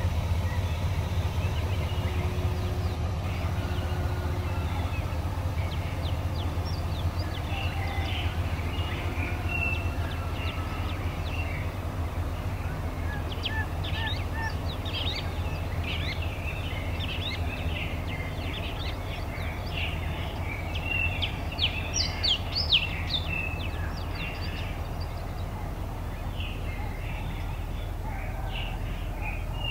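Small birds chirping in a busy scatter of short, high calls, thickest past the middle with a few louder ones, over a steady low engine hum.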